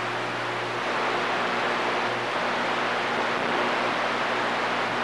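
CB radio receiver giving a steady hiss of static with a low electrical hum under it, an open channel between transmissions.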